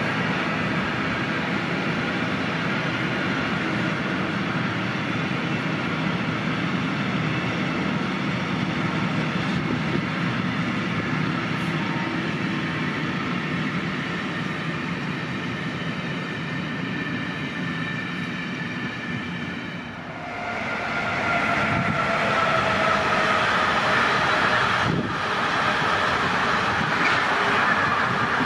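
Train running past, with steady rolling noise from wheels on the rails. About twenty seconds in the sound cuts to another passing train, louder, with a whine that falls in pitch as it goes by.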